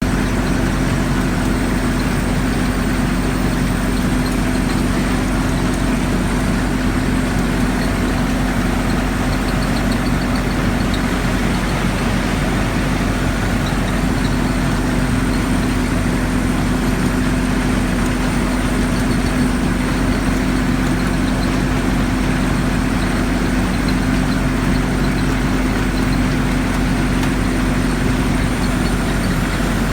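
Mechanical coffee harvester running steadily: a constant engine drone with a strong, unchanging hum.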